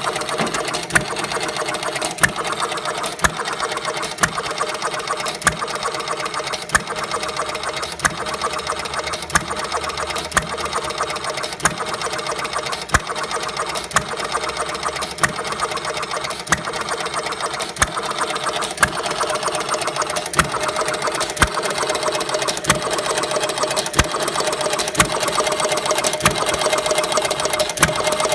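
1/3-scale Galloway hit-and-miss engine running on its 12-volt ignition: a steady mechanical clatter with a sharp crack about once a second.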